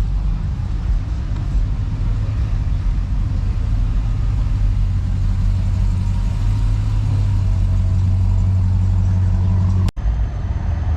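A vehicle engine running with a deep, steady low drone. It breaks off for an instant near the end.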